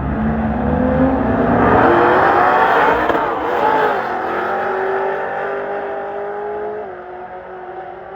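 Street car at full throttle accelerating past, its engine pitch climbing as it nears, dropping as it goes by about three seconds in, then fading into the distance.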